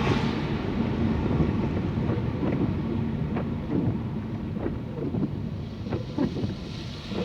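Car driving on a rain-soaked road, heard from inside the cabin: a steady engine and tyre hum with rain noise, and a few light ticks scattered through the middle.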